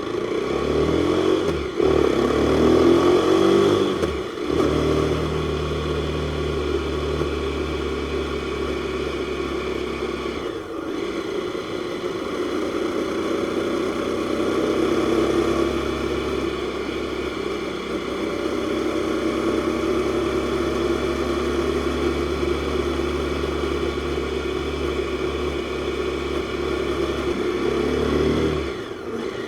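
Jawa 42's single-cylinder, four-stroke, liquid-cooled DOHC engine under way. It revs up and cuts off briefly about 2, 4 and 11 seconds in, as at gear changes, then runs at a steadier pitch with slow rises and falls in engine speed.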